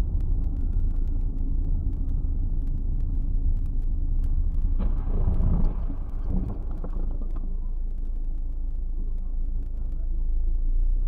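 Dashcam recording of a vehicle driving, with a steady low road and engine rumble inside the cabin and faint scattered clicks. About five seconds in, a sudden, louder and harsher noise comes in and lasts about two seconds.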